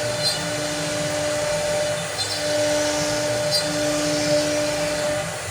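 CNC cutting machine running a cut: a steady motor whir with two steady hums that start and stop every second or so as the machine moves, plus a few faint ticks. The hums stop near the end.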